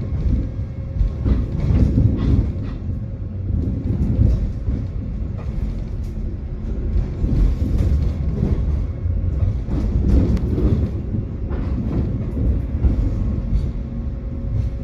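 Tram running along its track: a steady low rumble with irregular clanks and clicks of the wheels over the rails.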